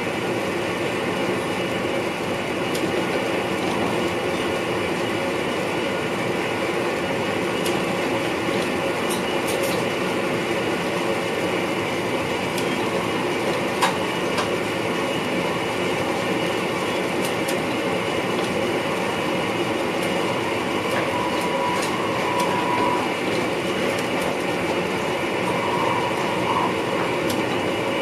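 Steady running noise heard inside the cab of an NS VIRM double-deck electric train: an even rumble of wheels on rail with scattered faint ticks. There is one sharp click about halfway through.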